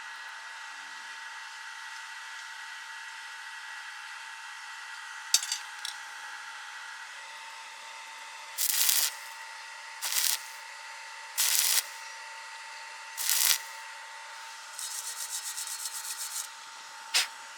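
Several short bursts of welding-arc crackle, each about half a second long, then a quicker run of rapid crackling, over a steady electrical hum with a sharp click near the end.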